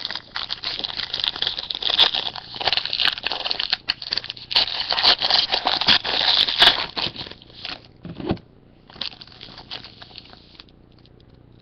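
Packaging crinkling and crackling as it is handled close to the microphone, in an almost continuous run that stops about eight seconds in, then a shorter burst around nine to ten and a half seconds.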